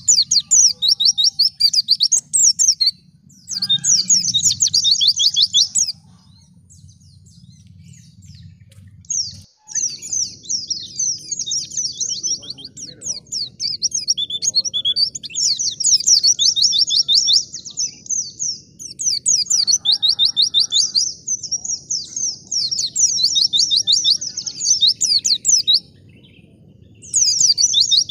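Wild white-eye (pleci) singing: fast, high twittering song phrases in long runs, broken by a few short pauses, the longest in the first third. A faint low rumble runs underneath.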